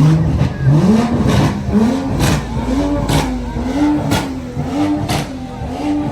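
Car engine revved hard over and over in a steady rhythm, about once a second, with a sharp crack at the top of each rev.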